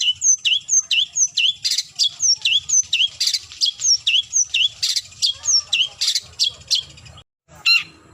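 Long-tailed shrike calling to challenge a rival: a fast run of sharp, down-slurred notes, about three a second, then after a brief break a harsher call near the end.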